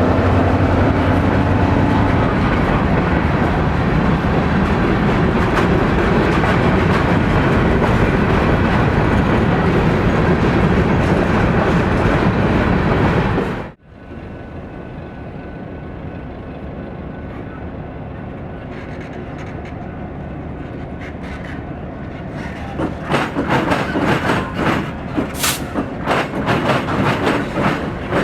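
Freight train passing close, diesel locomotive engine and wheels running loud and steady. The sound cuts off suddenly about fourteen seconds in; after a quieter stretch, a rhythmic clickety-clack of wheels over rail joints starts about twenty-two seconds in.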